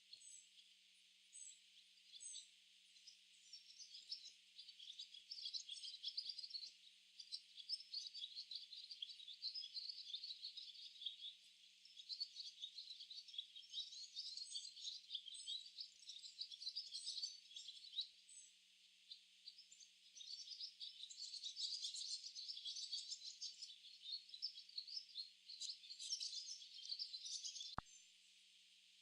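A flock of barn swallows chirping and twittering together in quick, high chirps. A few scattered calls come first, then a dense, overlapping chorus with a brief lull about two-thirds of the way in, and the chorus thins out near the end.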